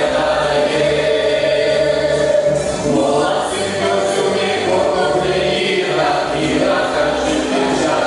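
A choir singing, with long held notes over a steady low accompaniment.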